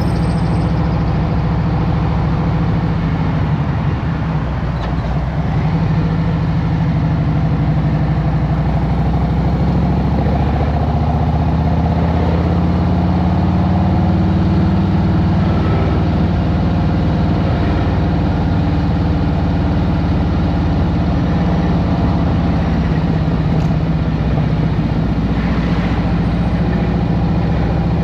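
Harley-Davidson Road Glide Special's Milwaukee-Eight 114 V-twin engine running at low revs in traffic, a steady low rumble whose pitch rises a little and falls back around the middle.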